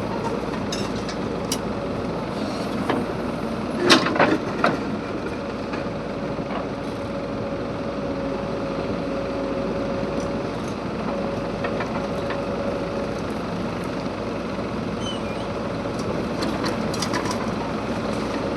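A JCB 3DX backhoe loader's diesel engine runs steadily. A few sharp metallic clanks come about four seconds in, and a thin steady whine sounds for several seconds in the middle.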